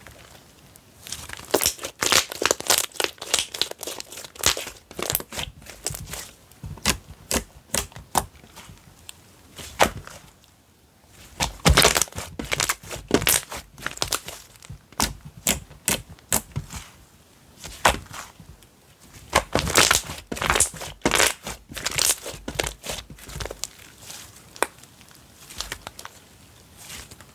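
Slime being squished, pressed and stretched by hand, giving off irregular crackling clicks and snaps that come in bursts, with quieter pauses about ten seconds in and near the end.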